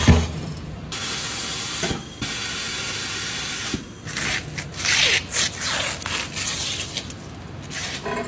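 A sharp knock, then a steady jet of hissing air or spray for a few seconds, followed by a run of short hissing spurts, as in tyre-shop work.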